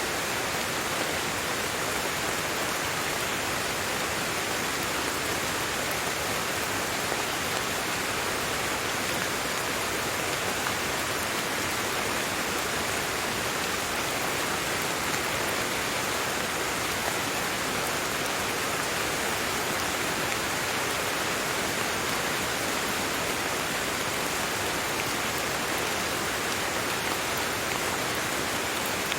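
Steady rain falling, an even hiss of many small drops with no single drop standing out.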